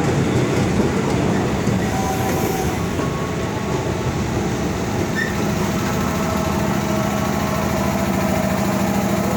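An ex-JR East 205 series electric commuter train running with a steady rumble, with a low hum and a higher tone over it that grow stronger about halfway through.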